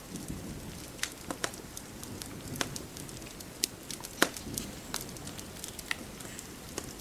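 Wood fire crackling, with sharp pops at irregular moments, one or two a second, over a low steady rumble.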